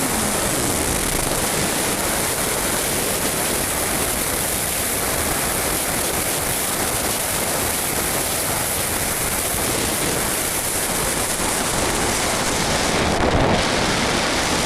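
Steady rushing wind noise on the microphone of an RC model plane's onboard camera while the plane glides with its motor off. The motor's steady whine stops right at the start.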